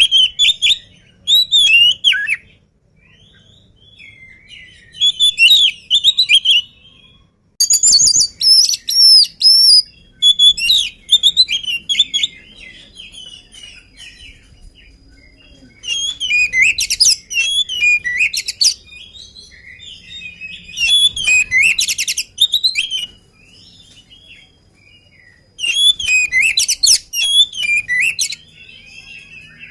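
Oriental magpie-robin singing loudly in bursts of quick, varied whistles and chattering phrases, with short pauses between them.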